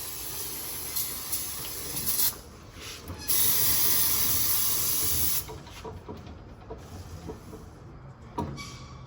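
Hissing from a pressurized jet of air or spray: a steady hiss for about two seconds, then after a short break a louder, high hiss for about two seconds that cuts off suddenly. Small clicks and a knock follow near the end.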